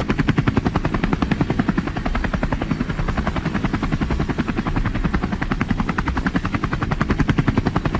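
A steady mechanical chopping: rapid, even pulses at about a dozen a second.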